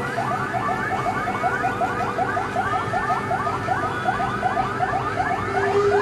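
Several fire-engine sirens on a fast yelp, overlapping so the rapid rising sweeps interleave. A steady lower tone joins near the end.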